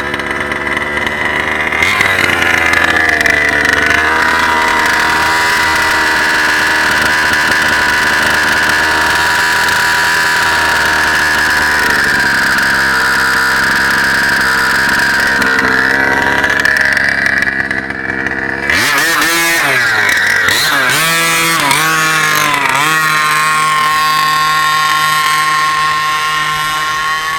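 36cc two-stroke engine of a Losi 5ive-T RC truck held at high revs at full throttle on a speed pass. About two-thirds through, the revs drop sharply and swing down and up several times before settling into a steadier, lower running note.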